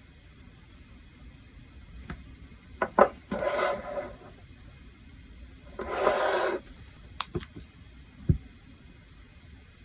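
Small items handled on a desk: a few light clicks and taps, two short scraping strokes lasting under a second each, and a soft knock near the end.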